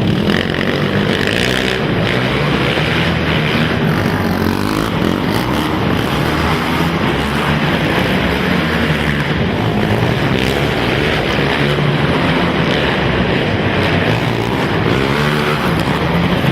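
Several racing quad (ATV) engines running at once, their pitch rising and falling over and over as riders rev, shift and back off around the track, echoing in an indoor arena.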